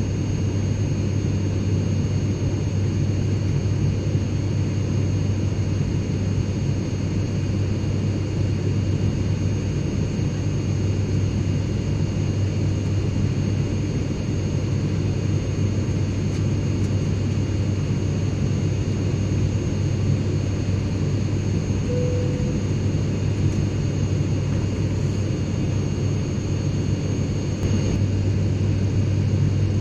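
Airplane cabin noise: a steady, unchanging low rumble with a faint high whine over it.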